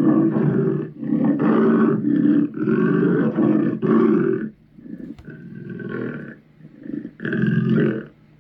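Monster roars and growls used as sound effects for the demon Chernabog: a run of loud growling roars, then quieter growls, and one more loud roar near the end.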